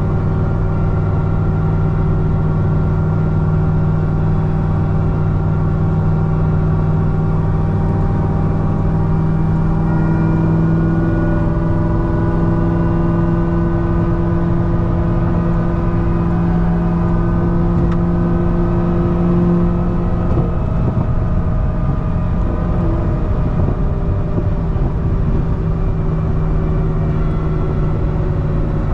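C6 Corvette ZR1's supercharged 6.2 L LS9 V8, fitted with a Kong 2650 supercharger, pulling at a steady cruise with supercharger whine. The engine note creeps slowly up in pitch, then shifts and drops about twenty seconds in, as when the driver lifts or changes gear.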